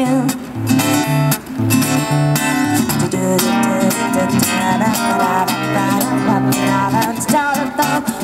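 Live acoustic guitar strumming a steady rhythm, with other instruments playing a pop song's instrumental passage between sung lines.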